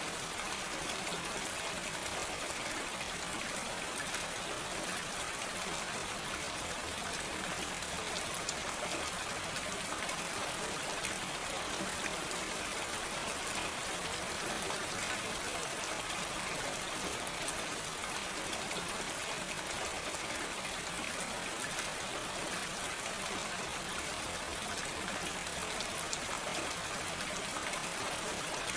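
Steady, gentle rain falling without thunder, a continuous even hiss with fine patter of individual drops.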